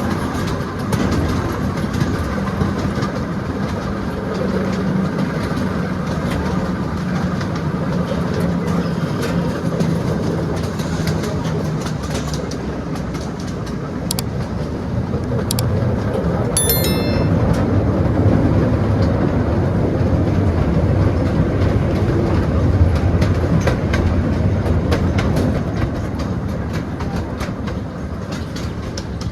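Miniature train running along its track, heard from aboard the passenger cars: a steady rumble of wheels on rail with rail-joint clickety-clack. A low engine hum drops in pitch about halfway through.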